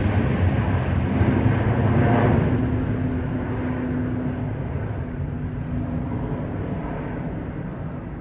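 Jet airliner engines rumbling as the aircraft passes close by. The sound is loud for about the first two seconds, then fades steadily as the plane moves away.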